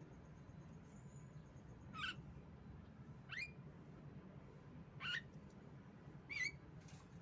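Female Javan myna (jalak kebo) giving four short, sharp calls about a second and a half apart, each a quick sweeping note, one of them rising, over a faint low hum.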